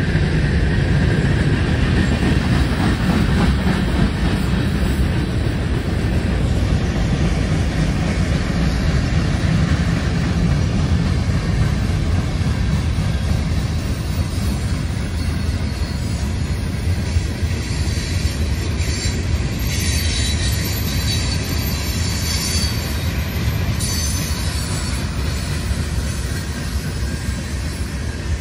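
Freight cars of a CSX mixed freight train (tank cars, boxcars and covered hoppers) rolling past with a steady rumble of wheels on rail. About two-thirds of the way through, a high-pitched wheel squeal rises over the rumble for several seconds.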